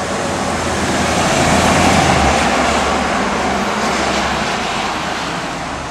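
Train passing by: a broad rushing rumble that swells about two seconds in and then slowly fades.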